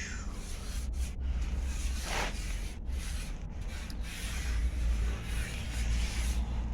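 Rubbing and rustling on the microphone over a steady low rumble, with a brief falling swish about two seconds in.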